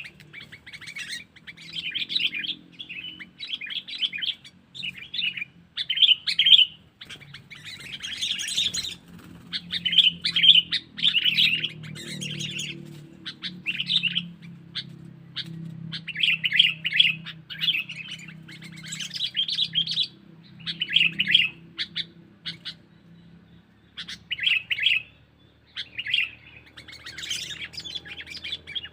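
Sooty-headed bulbul (kutilang) calling: short bursts of quick, chattering notes, roughly one burst a second with brief pauses between them.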